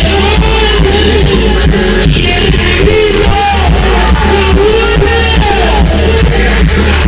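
Music played loud through a sonidero sound system, with a steady heavy bass and a wavering melody line.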